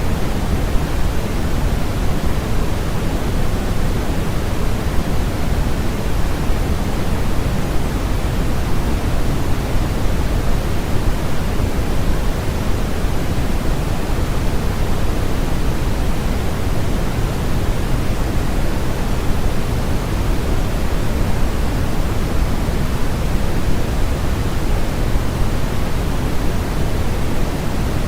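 Steady, unchanging synthetic noise of the white-noise sleep-sound kind, an even static hiss with more weight in the low end than in the highs.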